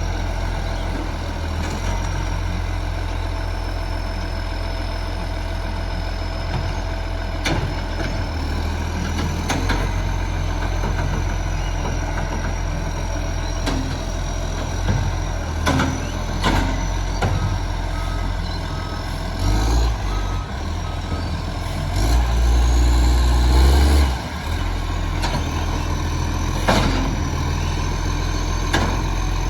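Recycling garbage truck's diesel engine running with a heavy, steady rumble. Midway a reversing beeper sounds a short run of evenly spaced beeps. Then the engine note swells louder for about two seconds, with scattered knocks and clunks.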